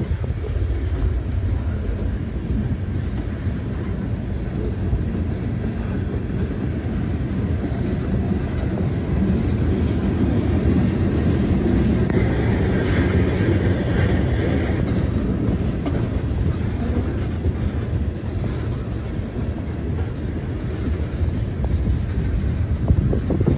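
Freight train of tank cars rolling past, steel wheels running steadily on the rails, a little louder about halfway through.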